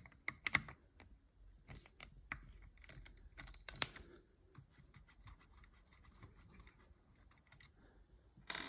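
Screwdriver undoing the small screws that hold the burr in a Eureka Mignon Specialita coffee grinder: faint, scattered metal clicks and short scrapes, with a sharper click a little under four seconds in and another near the end.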